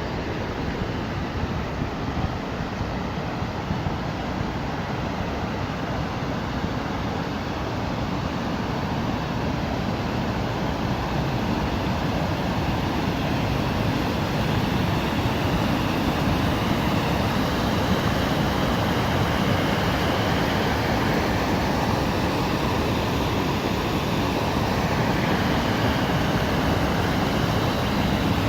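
Small waterfall rushing: a steady noise of falling water that grows slightly louder over the stretch.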